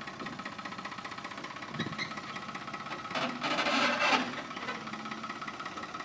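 An engine idling steadily, its level pulsing evenly, with a louder hissing rush lasting about a second a little past the middle.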